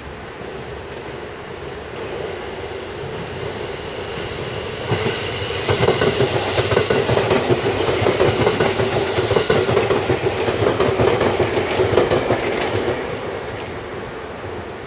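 JR Kyushu 783 series limited-express electric train passing at speed. The rumble builds as it approaches and jumps sharply about five seconds in as the train draws alongside. A rapid, rhythmic clatter of wheels over rail joints follows, fading after about thirteen seconds as the last cars go by.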